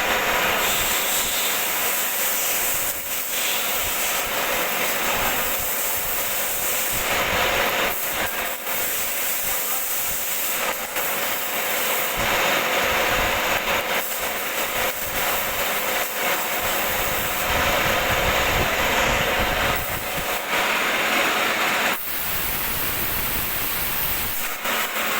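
Metal-turning lathe running while machining a workpiece: a steady, noisy hiss with a faint steady hum underneath.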